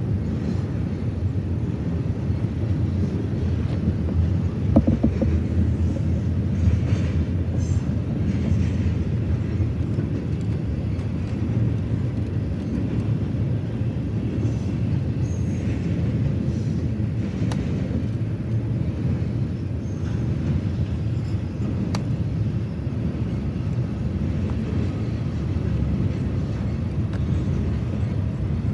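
Double-stack container freight train rolling past, its cars giving a steady low rumble of steel wheels on rail.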